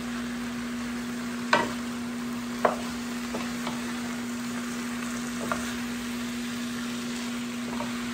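Raw chicken pieces and onions sizzling in hot oil in a square pan while a wooden spatula stirs them, with a few sharp knocks of the spatula against the pan, the loudest about one and a half seconds in and again a second later. A steady low hum runs underneath.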